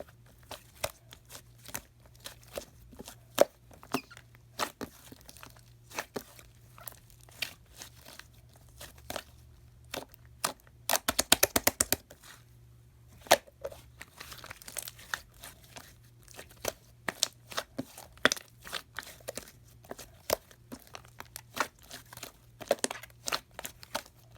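Slime being squeezed and stretched by hand, giving irregular sharp pops and crackles, with a quick run of clicks about eleven seconds in.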